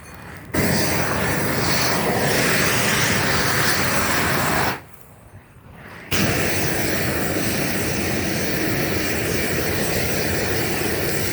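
Propane weed torch burning with a steady rush of flame. It cuts off suddenly for about a second and a half near the middle, then starts again.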